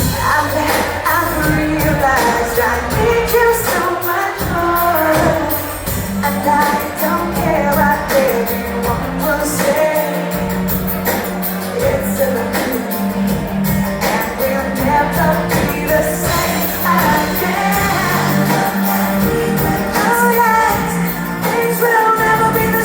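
Live pop song performed by a band, with a woman singing the lead vocal over a steady bass and beat.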